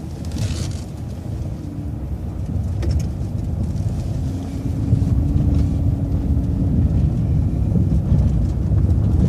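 City transit bus engine rumbling and getting steadily louder as the bus pulls through a turn and picks up speed. There is a short hiss about half a second in, and a faint steady whine partway through.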